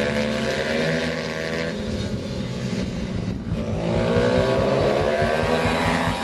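Pit bike engines revving on a track: the engine pitch falls, drops away about halfway through, then climbs again as the throttle opens.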